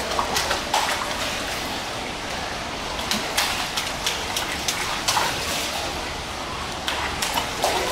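Steady running water at a children's water-play exhibit, with irregular splashes every second or so.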